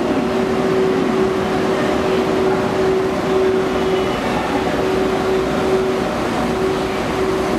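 Railway station platform noise around the Nihonkai sleeper train: a steady hum held at one pitch over a constant noisy din, with no announcement or chime.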